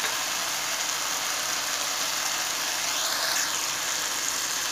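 Stir-fried peppers and onions sizzling steadily in a wok over a high gas flame.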